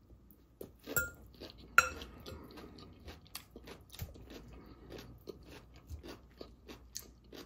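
Close-up chewing of a mouthful of crunchy raw salad (romaine lettuce, red cabbage, carrots and other raw vegetables), with many small crisp crunches a few times a second. A metal fork clinks against the glass bowl twice, about one and two seconds in.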